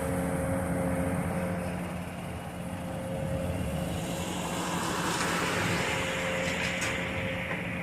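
Demolition excavator's diesel engine running steadily under load as it works the gym's steel frame. From about halfway in, a harsh grinding screech of straining steel grows louder and rises in pitch, with a few sharp cracks near the end.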